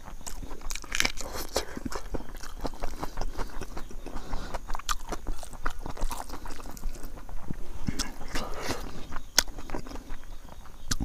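Close-miked chewing of rice with bamboo shoot pickle: wet mouth sounds with many irregular crunches and clicks.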